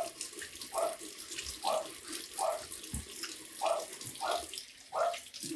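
Water running from a tap into a sink while shaving gear is rinsed under it, with a swishing splash repeating about every three-quarters of a second.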